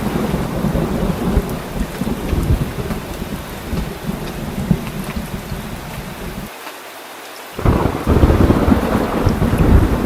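Heavy rain with a continuous deep thunder rumble. Roughly two-thirds of the way in, the low rumble cuts out for about a second, then the rain and rumble come back louder.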